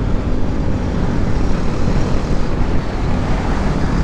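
Motorcycle running at road speed, its engine and the rush of wind on the microphone making a steady, loud noise.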